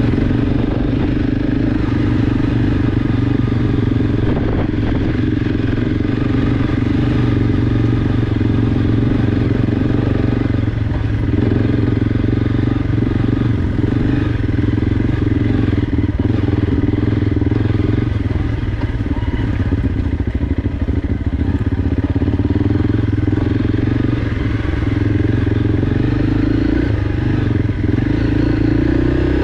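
Honda CRF300L single-cylinder dual-sport engine running steadily at low trail speed.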